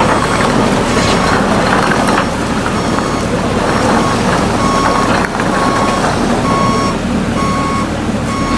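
Vehicle reversing alarm beeping, one short high tone about every second, clearer in the second half, over steady loud outdoor noise.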